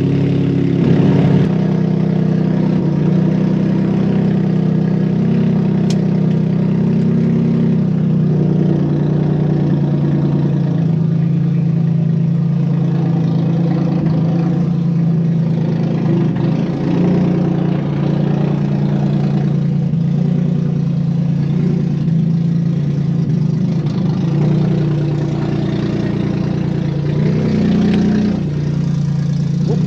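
Freshly swapped Nissan VQ35HR V6 in a Maxima running steadily on its first drive, holding a fairly even pitch with only small shifts.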